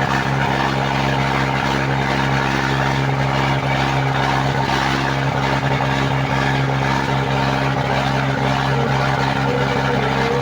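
Swaraj 963 and Sonalika 60 diesel tractor engines running hard and steady under heavy load, pulling against each other in a tractor tug-of-war; the engine note holds level without rising or falling.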